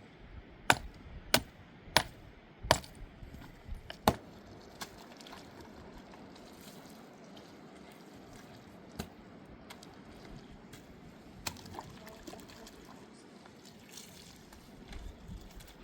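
A quick series of five sharp knocks in the first four seconds, then a steady wash of water with an occasional single click.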